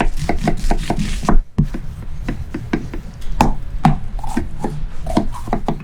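Knife chopping vegetables on a cutting board: a quick run of cuts, a short pause about a second and a half in, then more spaced strokes.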